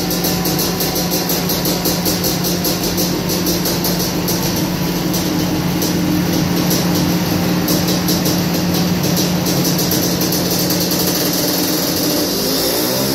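Honda CR500 single-cylinder two-stroke engine running on a chassis dyno, held at a steady pitch under load. Near the end the pitch dips briefly, then starts climbing as the engine is revved up.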